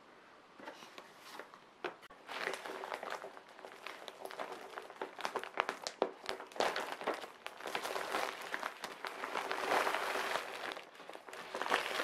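Crinkling and rustling with many small irregular clicks and taps, starting about two seconds in.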